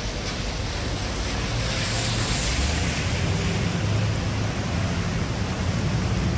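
Steady rush of heavy rain and wet-street traffic, with a low engine hum underneath; the hiss swells for a moment about two seconds in.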